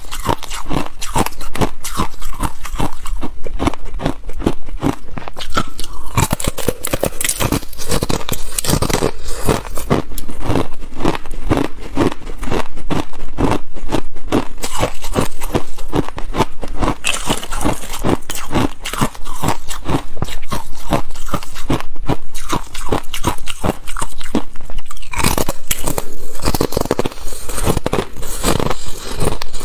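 A person biting and chewing hard ice close to the microphone: rapid, loud, continuous crunching.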